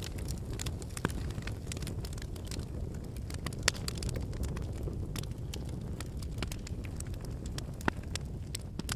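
Wood campfire burning: a steady low rumble of flames with irregular crackles and pops from the burning logs, a few sharper pops about a second in, near the middle and near the end.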